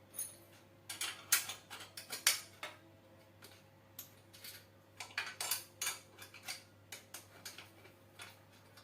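Small metal parts of a home-built grinder clinking and tapping together in irregular bursts as they are handled and adjusted, loudest about a second in and again about five seconds in.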